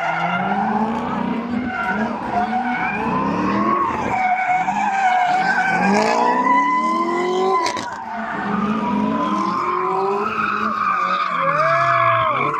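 A car's engine revving up and down again and again while its tyres squeal in a long, sustained slide: a car doing donuts.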